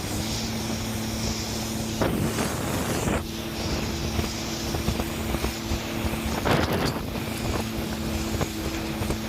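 Jet ski engine running at a steady speed, with wind buffeting the microphone. Two brief, louder rushes of noise break in, about two seconds in and again after six seconds.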